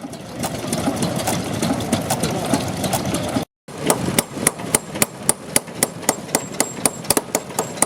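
Vintage stationary engines running. The first engine makes a dense, steady running sound, and after an abrupt cut about three and a half seconds in, a different engine takes over, knocking sharply and regularly at about four beats a second.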